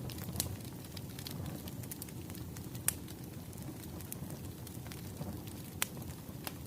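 Wood fire crackling: a steady low rumble of burning logs, with scattered sharp pops, three of them louder, about half a second, three seconds and six seconds in.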